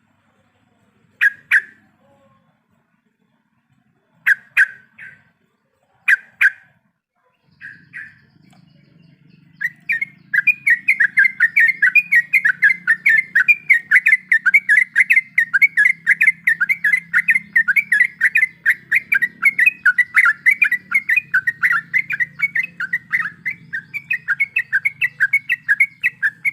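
Yellow-vented bulbul (trucuk) calling: a few short separate calls, then from about ten seconds in a long unbroken run of quick chattering notes, several a second, the long rolling song that keepers call ngeropel.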